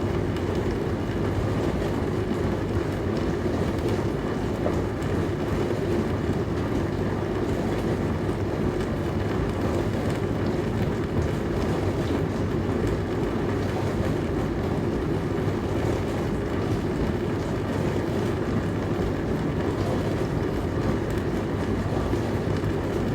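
Dishwasher running through its wash cycle: a steady churn of water spraying inside the tub over the low hum of the circulation pump, even and unchanging.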